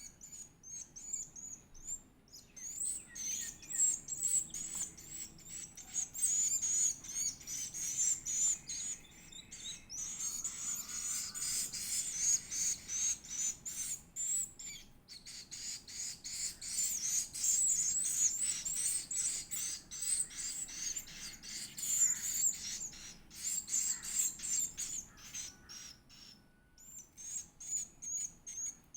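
Edible-nest swiftlet chick giving rapid, high-pitched begging chirps and trills while being fed, in a near-continuous stream with a short lull near the end.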